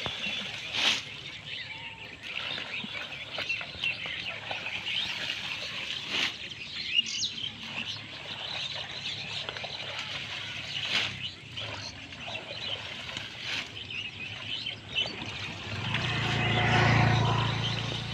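Small birds chirping in a steady chorus, with a few sharp knocks scattered through it. Near the end a motor engine hum swells and fades as a vehicle passes by.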